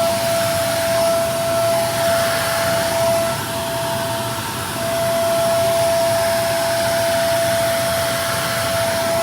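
Vacuum cleaner running steadily: a constant motor whine over a broad rush of air, the loudness swelling and dipping a little.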